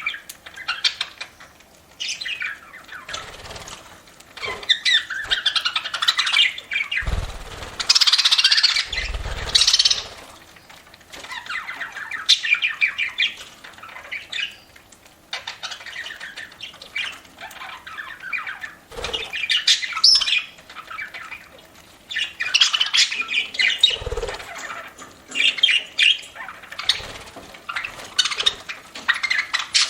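Budgerigars chirping and chattering continuously in a busy, warbling jumble, with a few low thumps about seven, nine and twenty-four seconds in.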